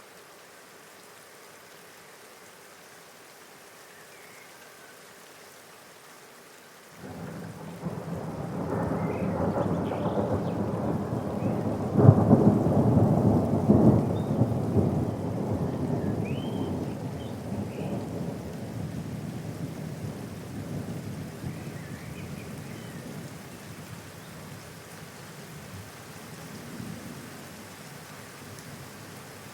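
Steady rain with a roll of thunder: a low rumble starts suddenly about seven seconds in, peaks with a sharp crack a few seconds later, then rolls away slowly while the rain keeps falling.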